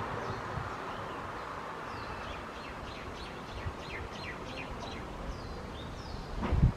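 A bird chirping, a quick series of short falling whistles, over a steady outdoor hiss. A low thump near the end is the loudest sound.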